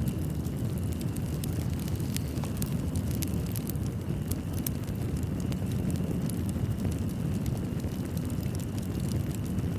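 Fireplace fire burning with a steady low rumble and frequent small crackles and pops of burning wood.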